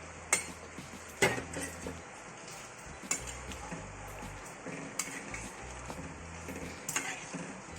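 A spoon stirring chicken curry in a cooking pot, knocking sharply against the pot about five times.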